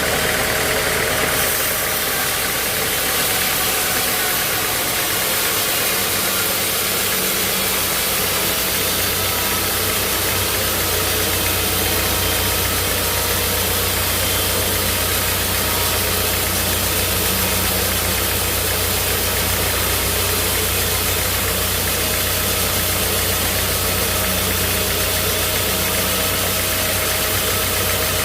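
Sawmill machinery running steadily with an engine-like hum. The low part of the hum grows stronger about eight seconds in.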